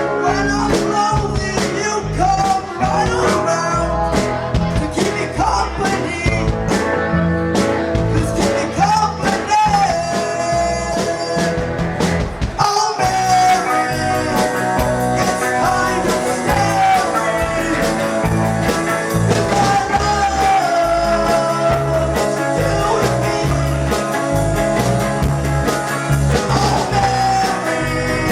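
Rock band playing blues-tinged rock and roll with electric guitars, a steady beat and a voice singing.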